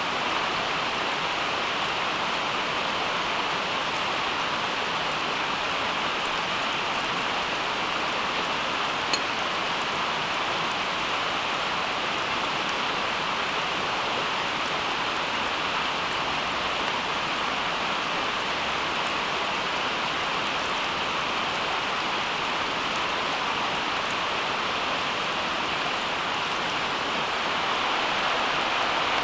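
Steady rain falling, an even hiss that does not change, with one faint tick about nine seconds in.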